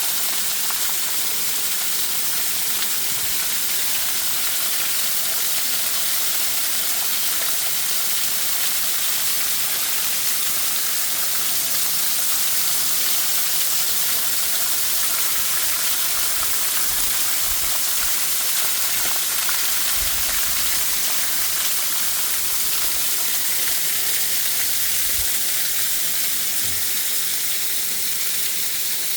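Waterfall: a steady rushing hiss of falling water, even throughout.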